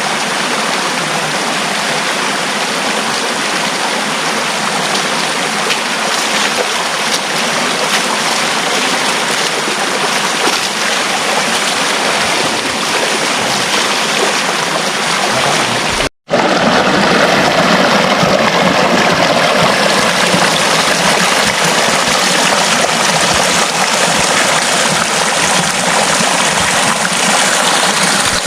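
Steady rush of flowing water from a stream, broken by a momentary dropout about sixteen seconds in, after which it runs a little louder.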